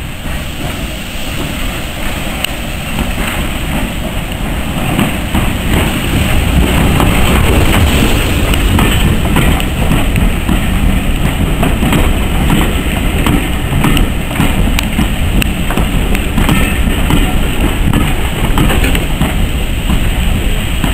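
Passenger train running past close by, its coach wheels on the rails. The noise builds over the first several seconds, then holds steady with many clicks as the wheels pass over rail joints.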